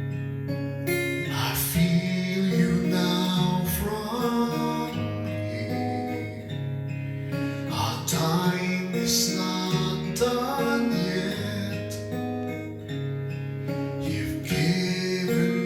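Instrumental music led by acoustic guitar with strummed chords over a steady bass.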